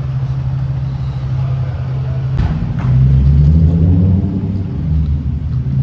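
Car engine idling with a steady low hum. About two and a half seconds in there is a sharp knock, then the engine note swells louder and climbs in pitch for a second or two before settling back.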